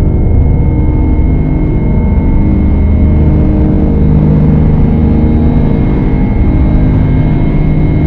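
Dark ambient drone music: a loud, steady low drone with several held tones layered over a noisy haze, changing little throughout.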